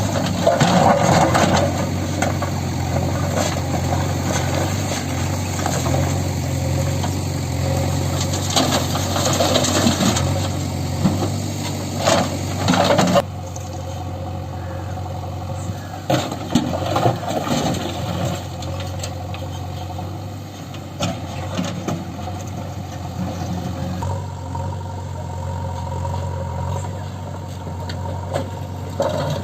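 Heavy diesel engine running steadily under load, with a low, even hum. The sound changes abruptly about halfway through.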